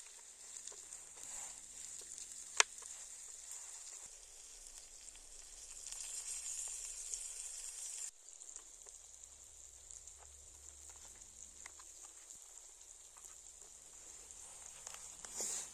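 Meat sizzling on a hot stone: a steady high hiss with scattered small crackles and one sharp pop a few seconds in.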